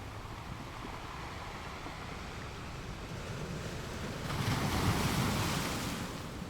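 Ocean surf: a steady wash of waves, with one wave breaking and rushing in louder a little over four seconds in, then easing off near the end.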